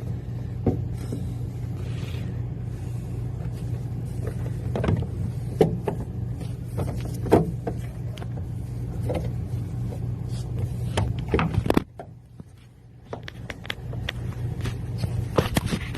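A steady motor-like hum with scattered knocks and bumps over it; the hum cuts off suddenly about twelve seconds in, and the knocking carries on.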